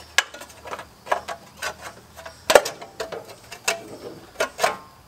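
Ratchet wrench clicking in short, irregular strokes, about two sharp metal clicks a second, as a plug is screwed back into the engine.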